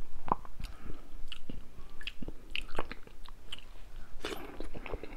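Close-miked mouth sounds of eating sauce-coated seafood-boil food: irregular wet chewing and lip smacks, with a longer, louder wet sound about four seconds in as another bite goes in.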